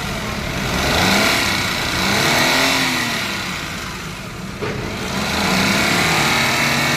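Maruti Alto 800's three-cylinder petrol engine revved up and back down twice with the accelerator, running with a loud, harsh noise that the mechanic suspects comes from the tappets.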